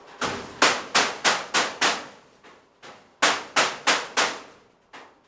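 Hammer blows on a block of wood held against sheet metal, straightening it: two quick runs of about five or six strikes, roughly three a second, with a short pause between.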